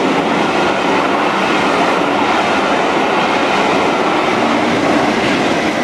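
Passenger coaches of a train passing close by at speed: a loud, steady rolling rumble and clatter of wheels on the rails. The diesel locomotive on the rear of the train comes past near the end.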